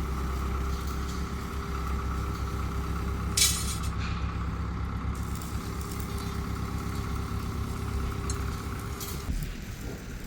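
A motor vehicle's engine running steadily with a low hum, with a short loud hiss about three and a half seconds in.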